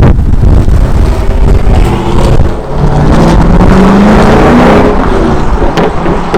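2005 Chevrolet SSR's V8 running loud through a newly fitted Corsa performance exhaust, the revs climbing for about a second and a half around the middle and then dropping back.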